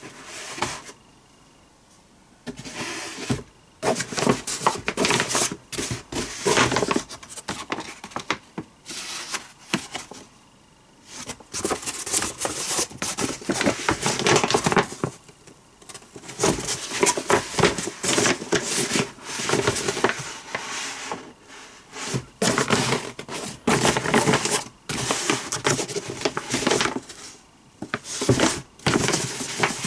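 Rustling and crinkling from things being handled, in bursts of a few seconds with short pauses between.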